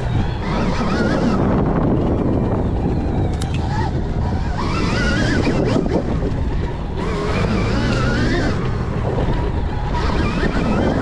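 Stark Varg electric dirt bike being ridden: heavy wind noise on the microphone, with the electric motor's whine gliding up and down in pitch in about four spurts as the throttle is worked.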